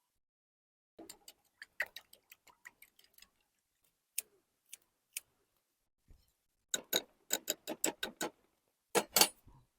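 Eggs being beaten with a utensil in a bowl: quick runs of sharp clicking taps, about five a second, broken by pauses, with a louder pair of clicks near the end.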